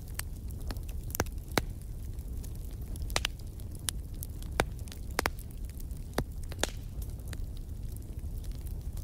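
Wood fire burning in a fireplace: a steady low rumble of the flames with sharp, irregular crackles and pops from the burning logs, about a dozen scattered through, a few of them louder.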